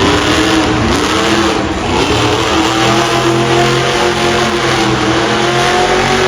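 Monster truck engine revving, its pitch climbing from about a second in and then held high and steady.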